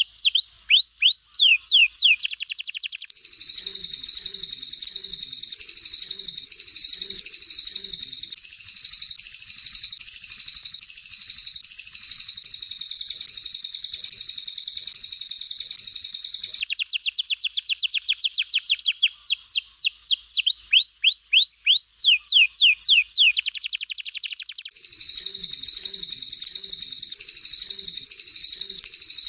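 Songbird tutor recording of canary and cililin song. Two songs alternate twice: quick runs of steeply falling, high whistled notes, then long stretches of a dense, high, buzzing trill.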